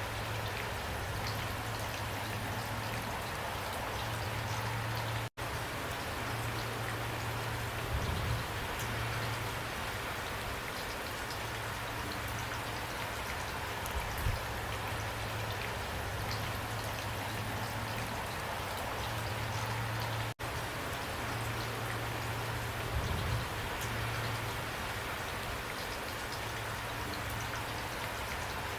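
Steady rain falling, with scattered individual drops ticking through the even hiss. The sound cuts out for an instant twice, about five seconds in and again about fifteen seconds later.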